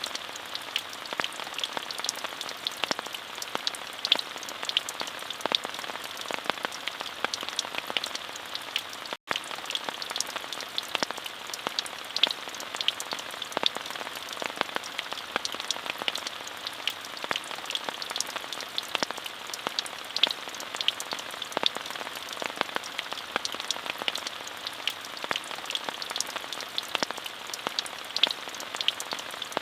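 Steady rain, an even hiss with many separate drops ticking through it. The sound cuts out completely for an instant about nine seconds in.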